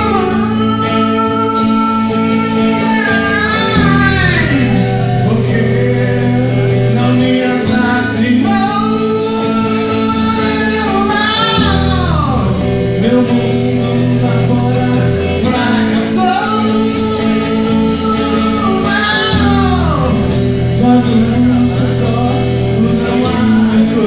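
Live rock band of electric guitar, bass guitar and drums playing a slow song. Long held melody notes bend and fall in pitch about every eight seconds over a steady bass line.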